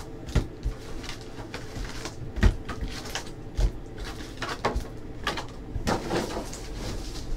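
Trading card packs and cards being handled on a table: irregular soft taps, rustles and sliding sounds, about eight sharper ones spread through, over a steady low hum.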